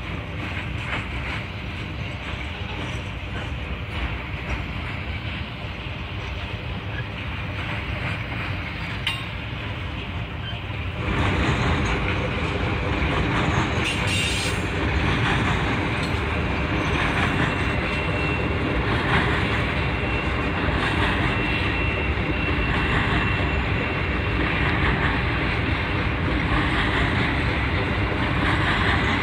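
Norfolk Southern Triple Crown RoadRailer train rolling past, its trailers riding on rail bogies and clattering steadily over the rails. It becomes louder about eleven seconds in.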